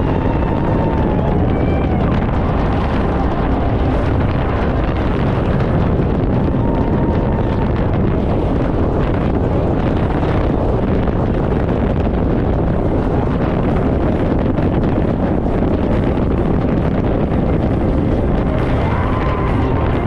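900-horsepower speedboat running at high speed: steady engine and water rush with heavy wind buffeting the microphone.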